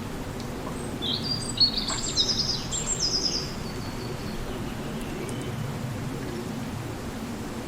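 A songbird singing a short burst of quick, high chirps and trills, starting about a second in and fading by about three and a half seconds, over a steady low rumble of outdoor background noise.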